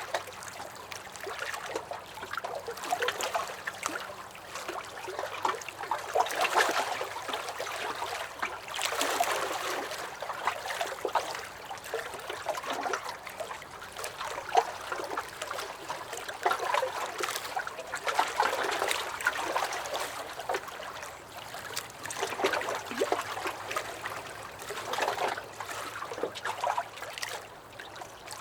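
Small lake waves lapping and splashing against a dock, a continuous wash that swells every few seconds with little sharp splashes and gurgles.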